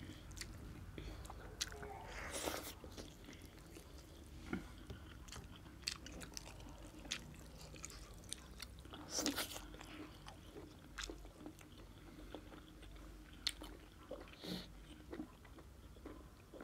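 Faint chewing and eating of mutton curry with rice, with scattered short mouth clicks and a few louder bursts of sound, over a low steady hum.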